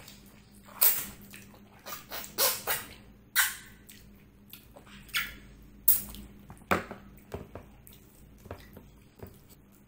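Close-miked wet eating sounds of a man chewing a mouthful of rice and mutton paya curry eaten by hand: a string of sharp wet lip smacks and chewing noises, most of them in the first seven seconds, then quieter chewing.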